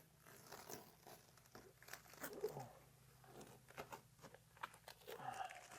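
Faint crinkling and tearing of masking tape being peeled off freshly painted boards, in short scattered rustles.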